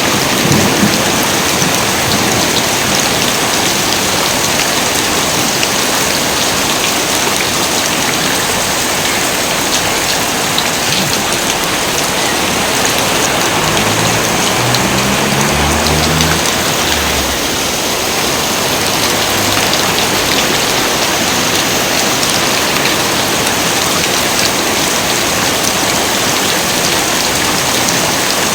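Heavy rain pouring steadily, an even dense hiss. A low rumble of thunder fades out in the first second.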